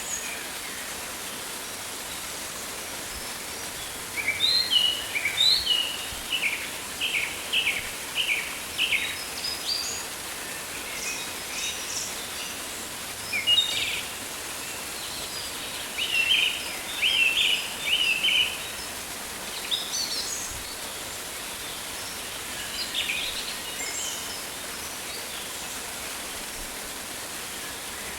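Rainforest ambience: songbirds chirping and calling in short bursts over a steady, even hiss. The chirping comes in several spells, busiest around the middle, then thins out near the end.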